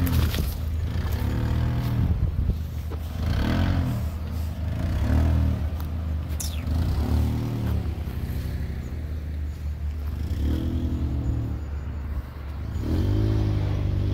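Mitsubishi Pajero iO's four-cylinder GDI engine revving up and down over and over, its pitch rising and falling about every two seconds, as the 4x4 works its way along a muddy track.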